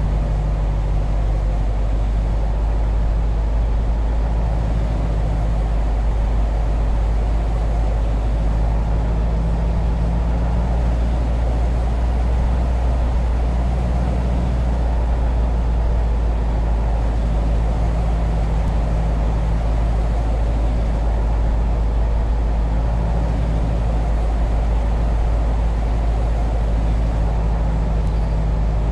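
Heavy road vehicle running steadily with a continuous low rumble and engine hum.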